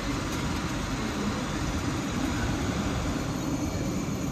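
Steady low rumble of an electric passenger train standing at a station platform.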